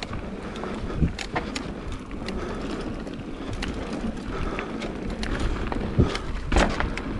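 Mountain bike riding a dirt trail: a steady rush of tyre and wind noise with sharp knocks and rattles from bumps, the loudest about a second in and around six seconds in.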